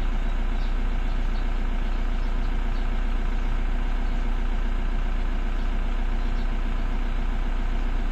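Toyota 2KD four-cylinder turbo-diesel engine idling steadily, running normally again after its camshaft position sensor connection fault was repaired.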